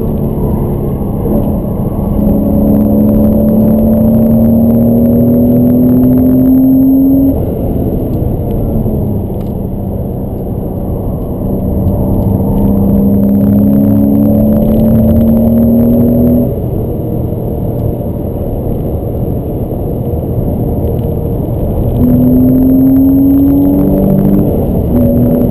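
Porsche Boxster S (986) 3.2-litre flat-six heard from inside the cabin with the soft top up, pulling hard with its note rising steadily three times. Each rise ends in a sudden drop in pitch and loudness, over a constant rumble of road noise.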